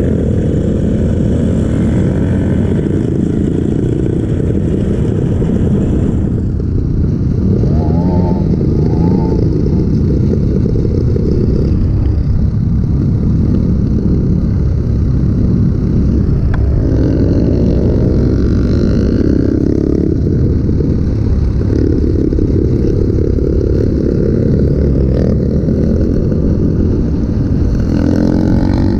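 Kawasaki KLX trail bike's single-cylinder four-stroke engine, with its stock exhaust, running under way and revving up and down, with clear rises in revs about a third of the way in, in the middle and near the end. Wind rumbles on the microphone throughout.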